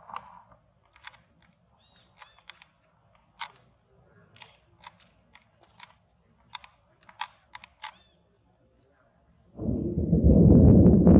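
A scattered series of sharp, irregular clicks and taps, then, just before the end, a sudden loud rushing, rumbling noise that takes over.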